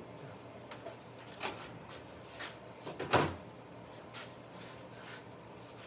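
Slot cars racing on a plastic track: a faint steady whir with a string of short sharp clicks and knocks, the loudest about three seconds in.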